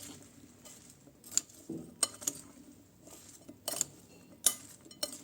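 A spoon clinking and scraping against a bowl in irregular taps as chopped potato and onion are stirred together with spices.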